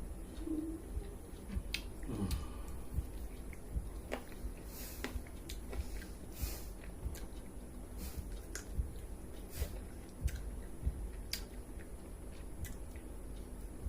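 A person eating pakhala (rice in water) with chicken curry, close to the microphone: steady chewing with many small wet mouth clicks and smacks.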